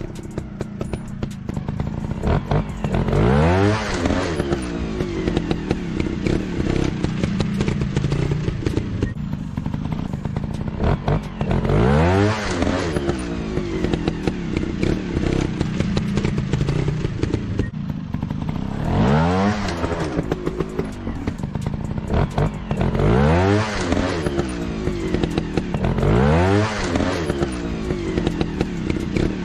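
Trail motorcycle engines running with dense crackle and clatter, revving up in rising sweeps about five times.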